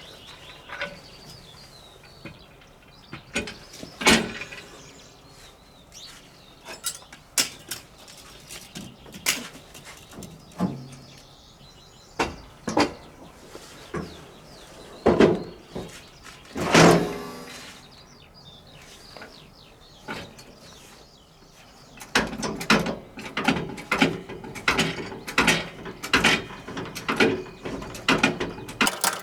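Irregular sharp knocks and clicks, a second or two apart, coming quicker and closer together over the last seven seconds.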